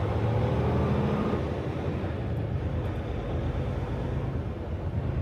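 Semi-truck diesel engine running at low speed, a steady low hum, with a higher engine note in the first second or so that then drops away.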